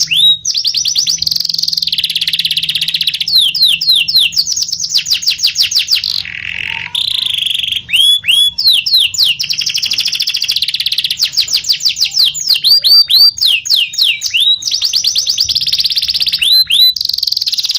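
Domestic canary singing without pause in rolling song. Runs of rapid, repeated falling whistled notes alternate with fast trilled rolls. A lower warbled phrase comes about six seconds in.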